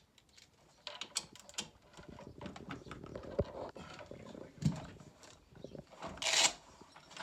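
Hands working on the stairlift's chair and its plastic cable connectors: a run of light irregular clicks and knocks, two heavier thumps in the middle, and a brief loud rustle about six seconds in.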